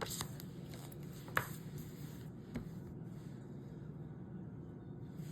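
Faint steady hum with a few light ticks and soft rubbing from handling a scratch-off lottery ticket, one sharper click about a second and a half in.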